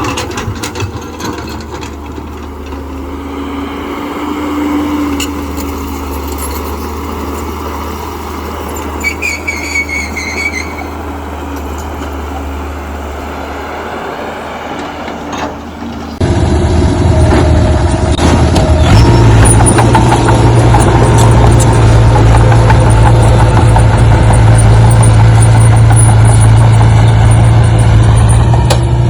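A machine running. About halfway through it steps up suddenly to a much louder, steady low hum.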